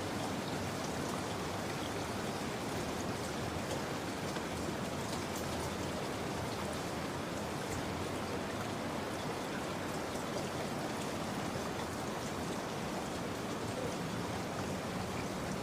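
Steady rain: an even hiss with scattered drops ticking through it.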